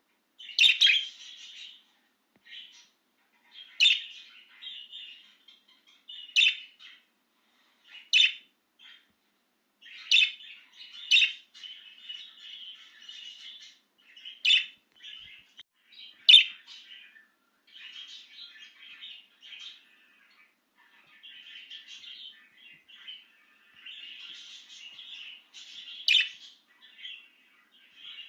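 A budgerigar chirping and warbling: loud, sharp chirps every few seconds over a softer, continuous chattering warble.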